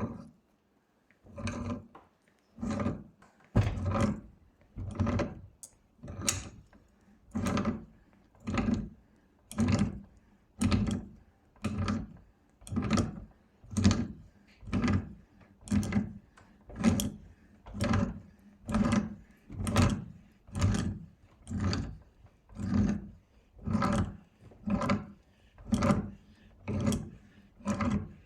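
Rhythmic hand-worked rubbing or scraping strokes, about one a second, each lasting under half a second, evenly repeated throughout.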